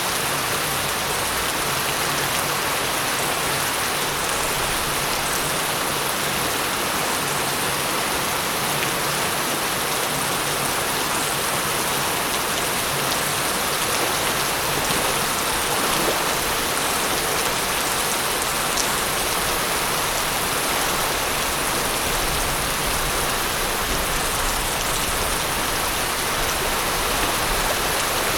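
Steady rain falling, an even hiss of drops on surfaces that holds at the same level throughout.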